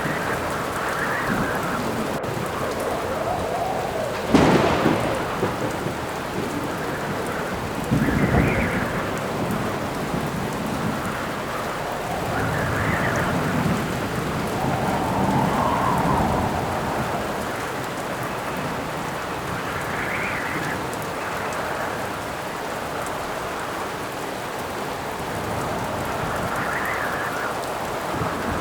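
Thunderstorm: steady heavy rain with gusts of wind that swell and fade every few seconds. A sharp thunderclap comes about four seconds in, and a second loud rumble of thunder follows about four seconds later.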